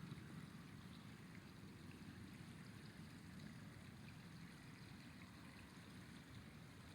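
Faint, steady rush of a flowing river, its water running and gurgling without a break.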